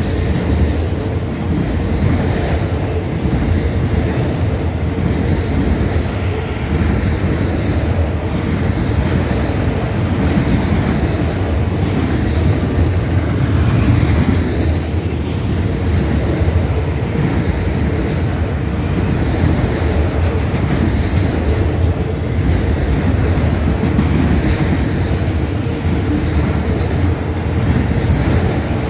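Freight train of empty autorack cars rolling past: steady wheel-on-rail noise with clickety-clack over the rail joints.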